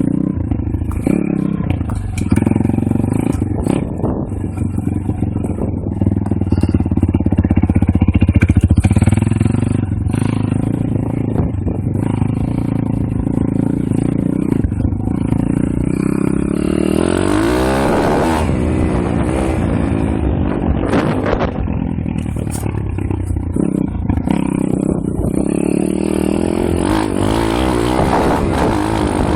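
Pit bike engine running under way, revving up and down as it is ridden, with its pitch rising and falling through gear changes and throttle.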